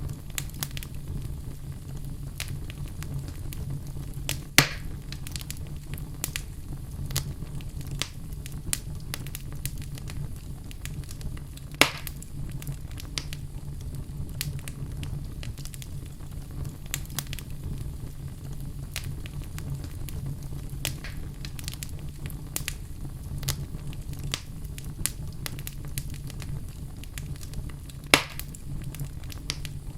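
Wood fire burning in a fireplace: a steady low rumble of the flames under frequent small crackles, with three louder pops, a few seconds in, near the middle and near the end.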